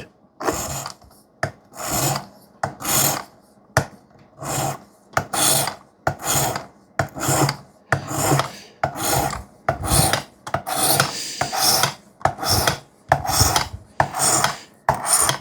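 A 320-grit diamond sharpening stone in a Work Sharp guided sharpener stroked along a CPM-3V steel knife edge with light pressure. It makes a steady run of short rasping strokes, a little over one a second.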